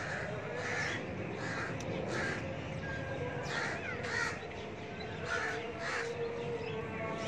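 Harsh bird calls, repeated in a run, often in pairs, about one every half second to second.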